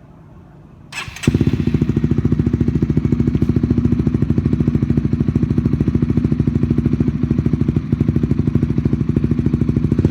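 Single-cylinder 150 cc sport motorcycle with an aftermarket stainless Akrapovic exhaust, started about a second in: a brief crank, then the engine catches and settles into a steady, evenly pulsing idle through the exhaust.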